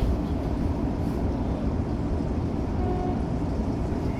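Steady low rumble inside the cab of a Tokyo Metro 05 series electric train.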